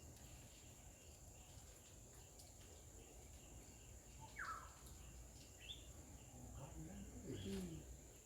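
Quiet outdoor ambience with a steady thin high whine. About halfway through comes a short falling bird-like chirp, followed by a couple of brief higher chirps, and faint wavering calls near the end.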